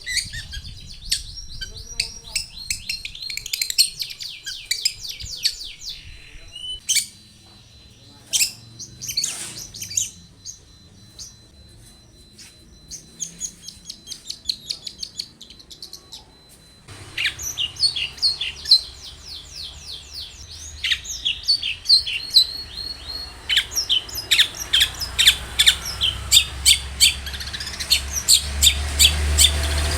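Long-tailed shrike song: fast runs of short, sharp, high chirping notes, broken by a sparser stretch in the middle. A low rumble and hiss come in partway through and grow louder near the end.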